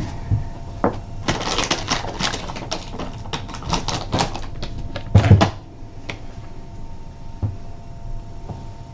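Rapid clicking and rattling of small hard objects being handled, ending in a louder thump about five seconds in.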